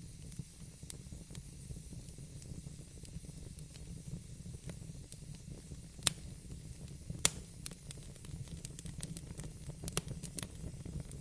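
Wood fire burning in a fireplace: a steady low rumble of the flames with scattered sharp crackles and pops, two louder pops about six and seven seconds in and a quicker run of small crackles near the end.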